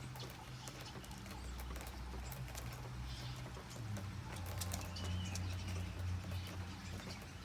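Rain dripping and pattering in scattered sharp ticks over a steady low rumble, with a few faint chirps.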